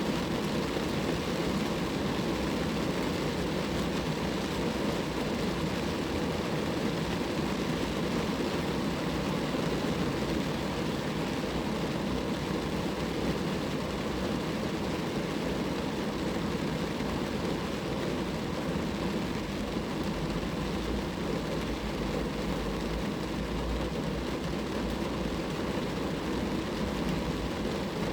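Rain falling steadily on a car, a dense, even hiss with a low rumble underneath.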